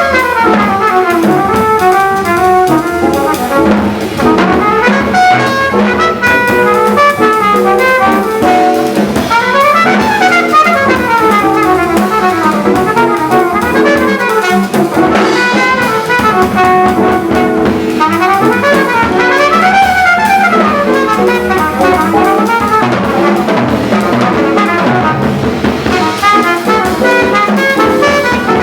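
Uptempo jazz: a trumpet plays fast runs that climb and fall, with a Pearl Midtown drum kit and Zildjian cymbals playing along.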